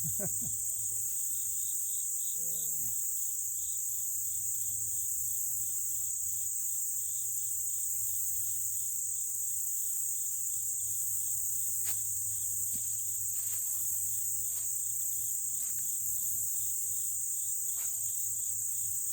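Insects chirping: a steady high-pitched chorus with a second, pulsing chirp just below it, going on without a break. A few faint clicks come in the second half.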